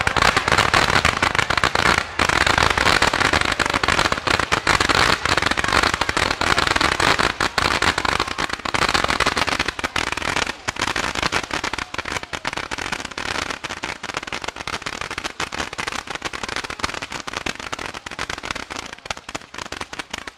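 Ground-fired fireworks shooting columns of sparks and coloured stars straight up: a dense, continuous crackle of rapid pops over a hiss, growing quieter over the second half.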